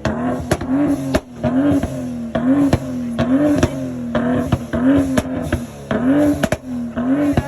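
A car engine idling with a rhythmic, loping chop: its note dips and rises about twice a second, with sharp pops among it.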